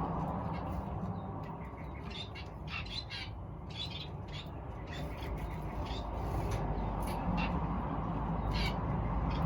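Aviary birds calling: many short chirps and squawks scattered through, over a steady low rumble.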